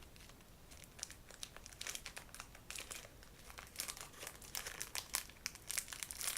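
Plastic granola bar wrapper being torn open and crinkled by hand, in irregular crackling bursts that grow busier in the second half.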